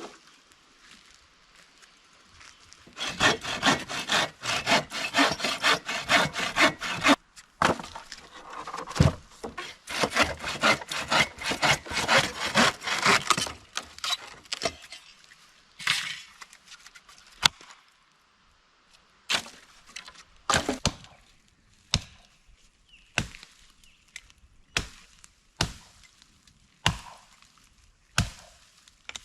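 Hand saw cutting firewood. After a quiet start, a long run of quick back-and-forth saw strokes goes on for about ten seconds. Following a short pause come single sharp strokes spaced about a second apart.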